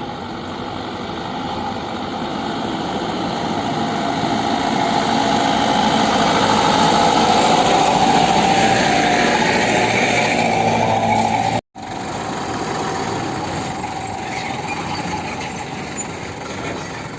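A truck engine running steadily, growing louder over the first several seconds. It cuts off abruptly for an instant about two-thirds of the way through, then runs on more quietly.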